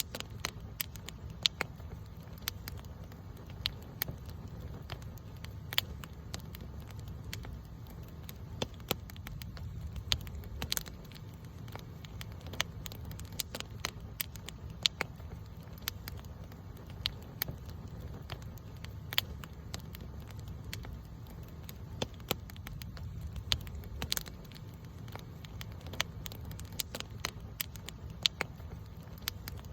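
Wood campfire crackling, with irregular sharp pops several times a second over a steady low rumble.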